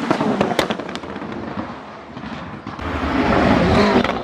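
Koenigsegg Jesko's twin-turbocharged V8 exhaust: a quick string of sharp pops and bangs in the first second. Then the engine swells up loudly near the end.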